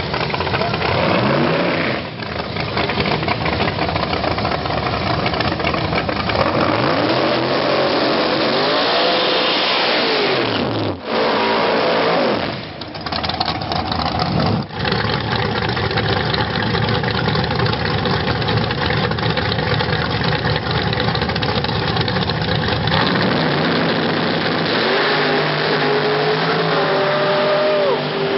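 High-powered drag-racing car engines revving hard and running loud, the pitch rising and falling with the throttle. The sound breaks off and starts again a few times.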